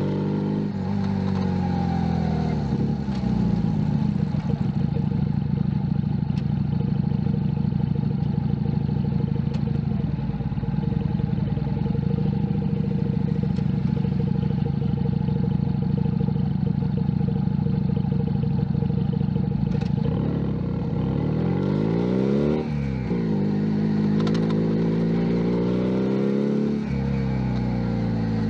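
Junak M11 Cafe 125cc motorcycle engine on the move, running at a steady pitch for much of the time. In the last third the revs fall and climb again several times, as on shifting and slowing.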